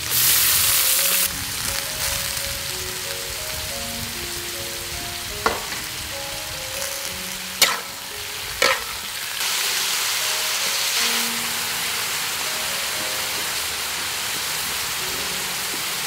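Julienned ginger sizzling in hot oil in a wok: a loud burst of sizzle as it drops in, then steady frying as it is stirred, swelling again about halfway through. Three sharp knocks of the stirring utensil against the wok come near the middle.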